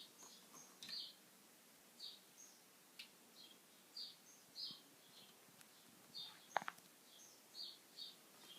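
A small animal chirping: faint short high chirps, roughly two a second. A single sharp click comes about two-thirds of the way through.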